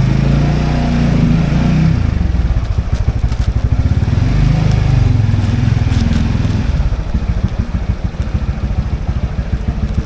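Motorbike engine running while riding, its note swelling twice and then easing to a lower, quieter level after about seven seconds.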